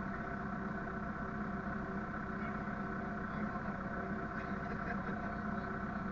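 Vehicle engine running steadily, a constant hum with a fast, even low pulse.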